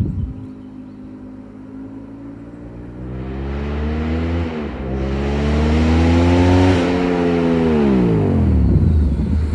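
Yamaha MT-07 (FZ-07) parallel-twin through an MGP Hotbodies aftermarket exhaust, accelerating in with one gear change about four and a half seconds in, then flying by as the engine note falls.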